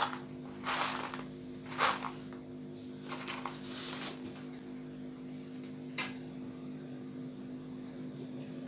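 A steady electrical hum with about half a dozen light clicks and taps scattered through it, the sharpest about two seconds in and about six seconds in.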